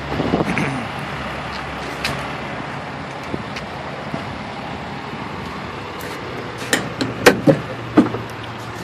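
Steady outdoor traffic noise. Near the end come a few sharp clicks and knocks from a pickup truck's latch and lid being worked open, most likely a RamBox bed-side storage compartment.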